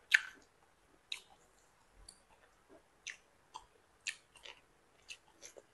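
Close-up chewing of crisp Chinese kale (gai lan) and beef: moist crunches and mouth clicks at an irregular pace. The sharpest crunch comes right at the start.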